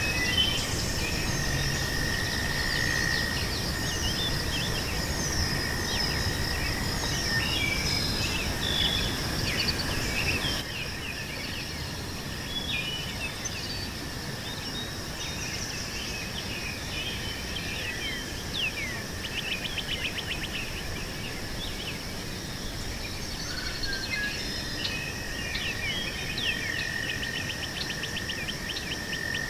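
Meadow ambience: many small birds chirping and calling in short sweeping notes over a steady high insect drone, with a low wind rumble that eases off about a third of the way through.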